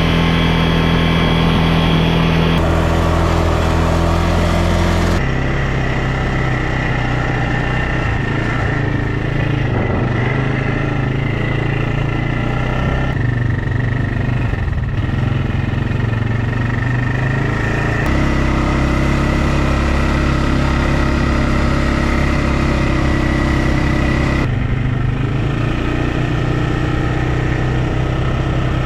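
Quad bike engine running steadily under way, its note shifting abruptly several times.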